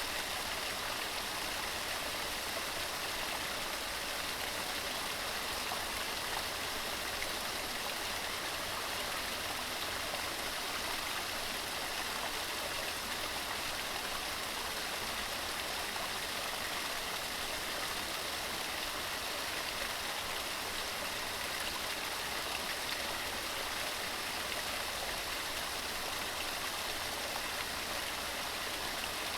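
Waterfall: water tumbling over rocks in a steady, unbroken rush with a bright hiss and no change in level.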